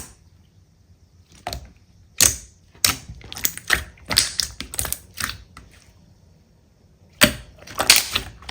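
Slime being pressed and squished by hand, giving sharp, clicky pops and crackles in irregular clusters. There is a pause of about a second and a half before a final dense run near the end.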